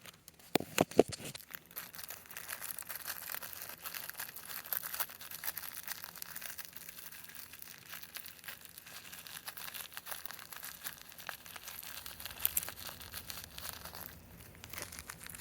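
Packaging crinkling and rustling as party snappers are handled and pulled out, with a few sharp clicks about a second in followed by continuous small rustles and ticks.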